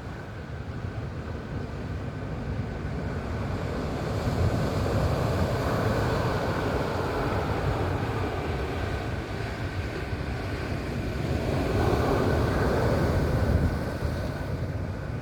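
Ocean surf breaking and washing up the beach, swelling twice as waves come in.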